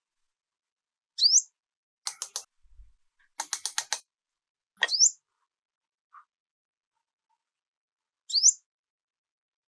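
A songbird giving a short, sharp upward-sweeping chirp three times, a few seconds apart. Between the first and second chirps come two brief runs of rapid clicks.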